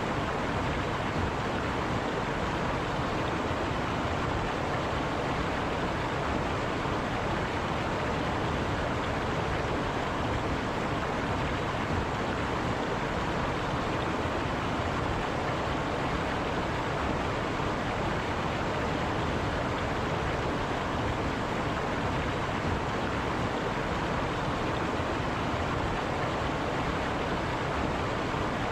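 River water running over rocks, a steady rushing flow.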